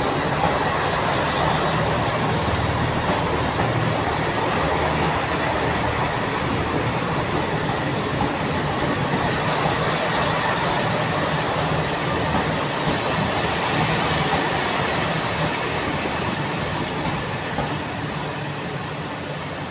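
Transport for Wales diesel multiple unit departing and passing close by, a steady engine drone mixed with wheel and rail noise. A brighter hiss swells about two-thirds of the way through, and the sound eases off near the end as the train draws away.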